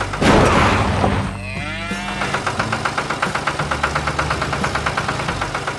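A cow moos once, about a second in, over a steadily chugging tractor engine.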